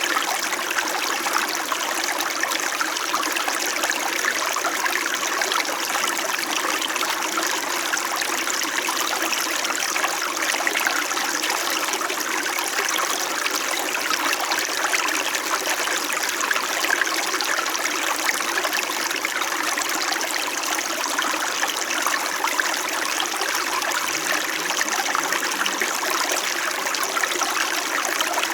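Small mountain stream flowing over rocks, a steady babbling and trickling of water.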